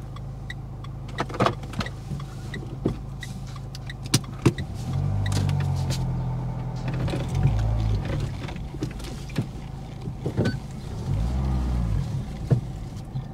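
Car engine heard from inside the cabin as the car turns back, running with a steady low hum. Its pitch climbs and falls twice, about five seconds in and again near eleven seconds. Scattered knocks and clicks are heard along with it.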